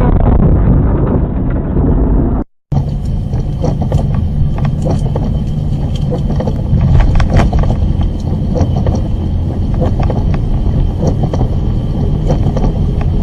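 Car engine and road rumble as picked up inside a moving car by a dash camera, muffled at first, then breaking off briefly about two and a half seconds in, where one recording cuts to another. In the second recording the rumble carries a steady hum with scattered short clicks.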